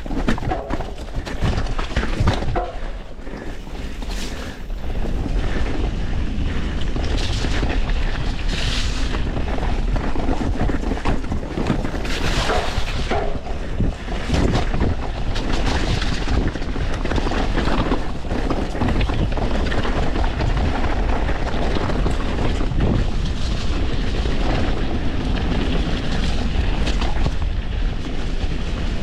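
Mountain bike descending a rough dirt trail: wind buffets the camera microphone in a steady low rumble, and tyres run over the ground while the bike rattles. Short knocks from bumps come now and then throughout.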